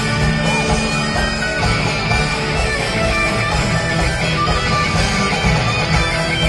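Live rock band playing an instrumental passage with guitar prominent, loud and continuous, with no singing.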